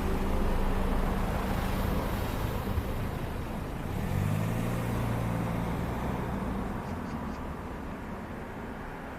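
Motor vehicles passing close by on a road: an engine hum with tyre and road noise, a second vehicle's engine rising about four seconds in, then fading away.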